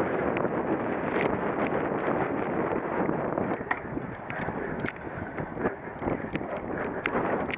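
Wind rushing over the microphone and a cyclocross bike rattling over rough ground, with frequent sharp clicks and knocks from the bike and its tyres on the course.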